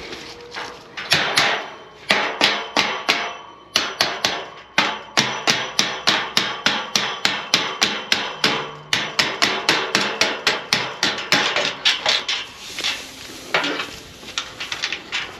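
Repeated hammer blows, about two to three a second in steady runs with a couple of short breaks, knocking an old farm gate loose from its post hinges.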